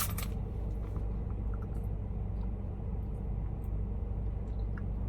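Steady low rumble of car cabin noise, with a few faint clicks.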